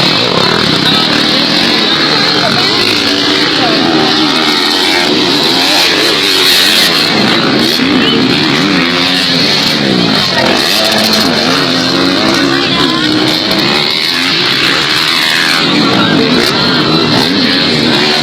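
Several motocross bikes' engines racing at once, their pitches rising and falling as riders rev up and back off.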